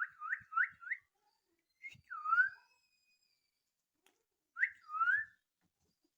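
Young Alexandrine parakeet giving whistled calls: a quick run of four rising notes, then two two-note calls, each a short high note followed by a longer note that dips and rises.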